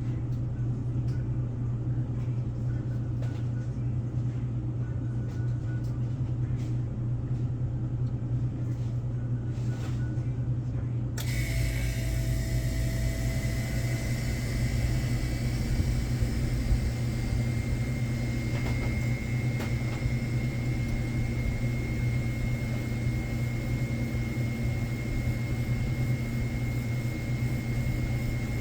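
Steady low mechanical hum and rumble. About eleven seconds in the sound changes abruptly and a steady high-pitched whine joins the hum.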